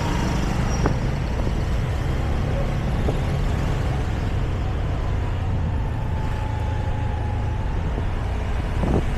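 Motorbike engine running steadily while riding, a continuous low rumble with a faint steady whine above it.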